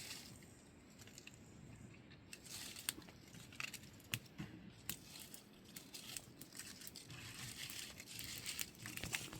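Crinkling and rustling of something dry being handled, with many sharp clicks, starting about two seconds in.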